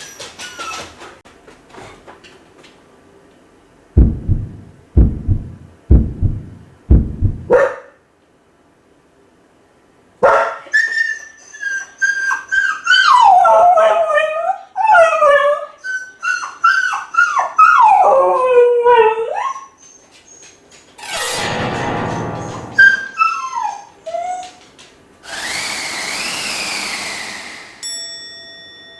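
Kai Ken dog howling and whining while left home alone, a long run of wavering cries that each slide down in pitch. Before the howling come four heavy thumps about a second apart, and after it come two short noisy bursts.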